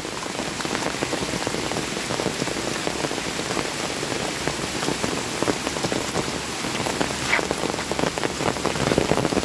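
Steady rain falling on leaves and wet ground, with many close drops ticking.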